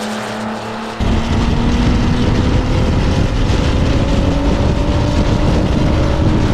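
Vehicle engine running at speed under heavy low wind rumble on the microphone, its pitch creeping slowly upward. It cuts in abruptly about a second in, after a quieter steady engine hum.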